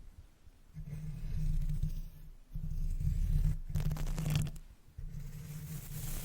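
Makeup brush swept across the microphone in four strokes of about a second each, a muffled low rustle with a brighter bristle hiss in the last two.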